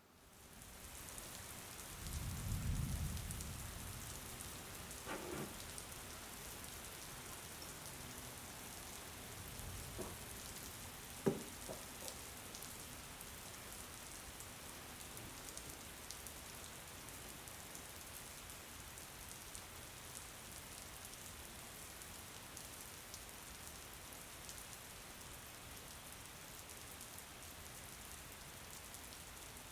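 Steady rain falling, an even hiss that fades in at the start. About two seconds in comes a low rumble, and between five and twelve seconds a few short knocks, the sharpest near eleven seconds.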